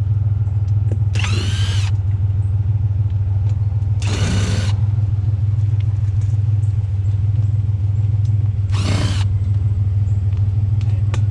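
Three short bursts of a handheld power tool, each about half a second, over a steady low hum.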